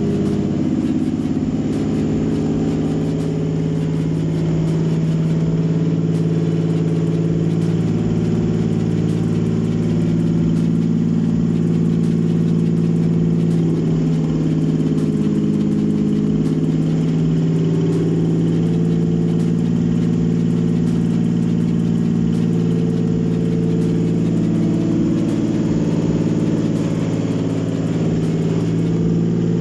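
Toyota 3GR 3.0-litre V6 engine running steadily at idle on an engine test stand, a used engine being checked after its first start.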